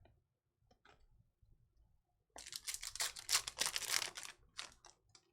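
Trading cards and their packaging being handled: a few faint ticks, then, about halfway through, roughly two and a half seconds of dense crinkling and rustling.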